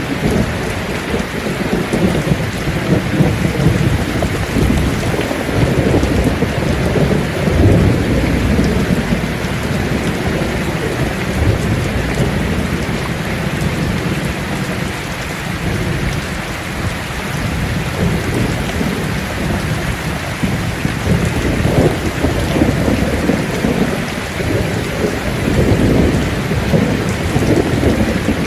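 Steady heavy rain falling on leaves, over a low rumble that swells and fades over several seconds at a time.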